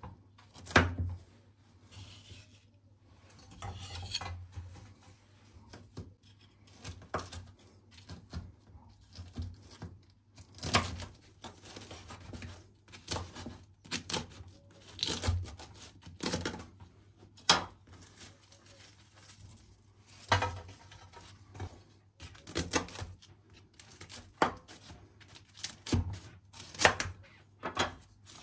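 Food preparation on a work surface: irregular knocks and clicks about every second or two, with rubbing and scraping between them.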